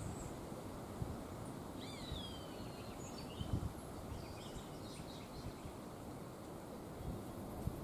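Steady wind noise with low gusts, and faint birdsong over it: a clear gliding, falling call about two seconds in, then scattered short chirps.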